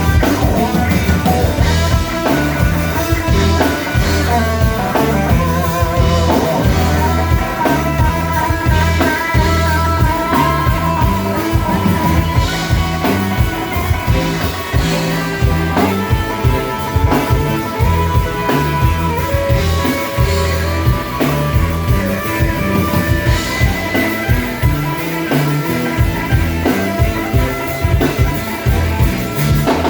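A blues-rock band playing an instrumental passage: electric guitar lines over a steady bass and drum beat.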